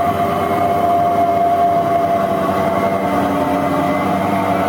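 A large machine or vehicle running loudly and steadily: a noisy drone with a steady whine in it.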